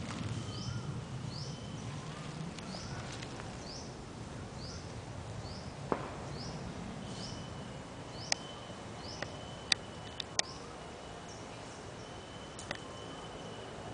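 A bird repeating short rising chirps about every half second, over a thin steady high insect drone that comes and goes. A few sharp cracks stand out, the loudest in the second half.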